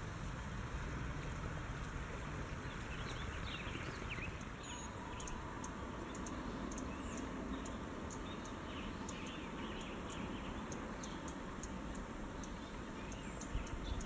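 Faint bird chirps and quick high ticks, scattered from about four seconds in, over a steady low outdoor background noise.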